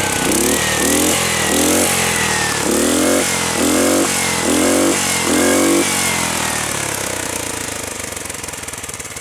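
Modified Honda single-cylinder engine on a garden tractor, running through a cut-down muffler, blipped up in a quick series of short revs about twice a second. About six seconds in the revving stops and it settles back toward idle, getting quieter.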